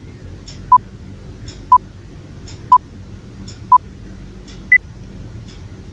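Countdown timer sound effect beeping once a second: four short beeps at one pitch, then a single higher beep near the end as the count runs out. A faint tick falls between the beeps.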